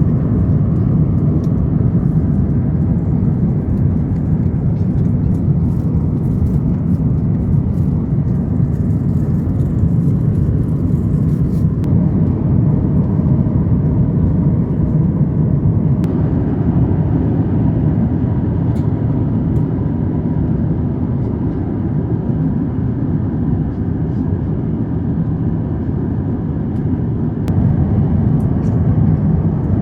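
Steady low rumble of engine and airflow noise inside the cabin of an Airbus A350-900 with Rolls-Royce Trent XWB engines. Its tone shifts slightly at a few points.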